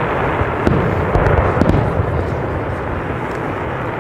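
Fireworks going off in quick succession: a dense, continuous rumble of bursts with sharp cracks every second or so.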